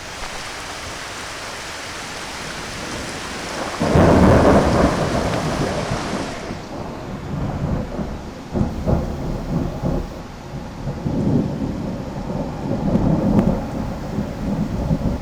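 Thunder in a heavy thunderstorm: a steady rain hiss builds, then a loud thunderclap breaks about four seconds in and rolls on as deep, uneven rumbles that swell and fade several times.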